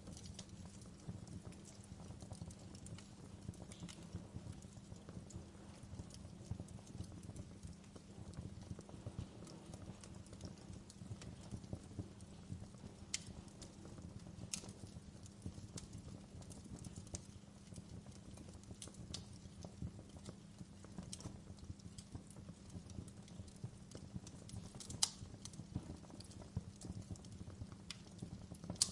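Wood fire burning in a fireplace: a steady low rumble under frequent, irregular sharp crackles and pops of the burning wood, with one louder pop near the end.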